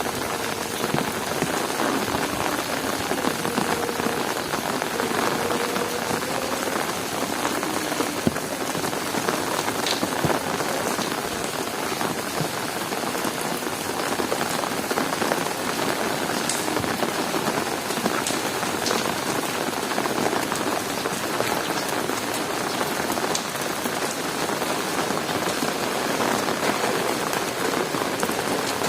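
Heavy rain falling steadily, a dense patter of drops on hard surfaces, with a few sharper drop hits here and there.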